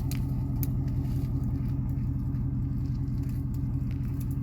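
A 2008 Ford F-150's 5.4-litre three-valve V8 running at a steady speed with no revving, with a few scattered light clicks over it.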